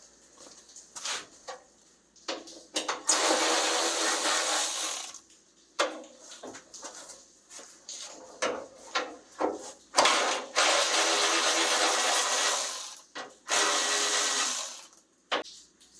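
A handheld power tool runs in three bursts of about two to three seconds each, spinning bolts out of the truck's sheet metal. Short knocks and clinks of metal parts being handled fall between the bursts.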